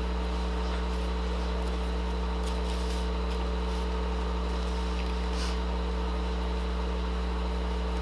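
Steady electrical hum at several fixed pitches, with a few faint clicks about two and a half to three and a half seconds in and a brief soft scrape or rustle about five and a half seconds in.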